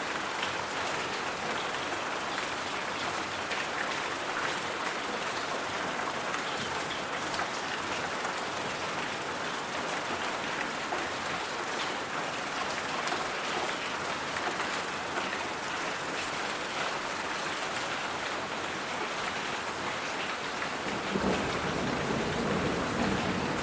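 Steady rain falling on a surface, an even hiss with faint scattered drop ticks. A low rumble joins near the end and the sound gets slightly louder.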